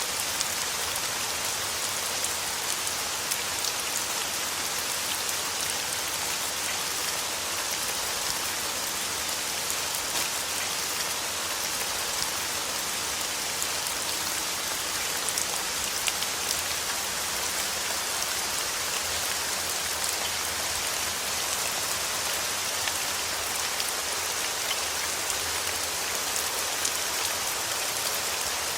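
Steady rain falling on a surface: an even hiss with a few distinct drop ticks here and there.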